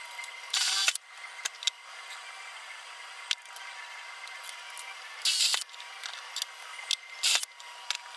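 Tools and parts being handled and fitted onto a wooden tool cart: scattered clicks and light knocks, with three short scraping or rushing bursts, the first about half a second in, another around five seconds in and a last one near the end.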